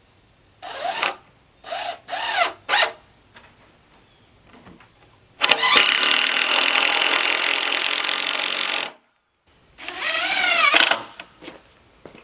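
Cordless drill/driver run in short trigger pulls, each speeding up and winding down, then held for a steady run of about three and a half seconds that cuts off suddenly, and one more short pull near the end, as when driving screws into 2x4 door framing.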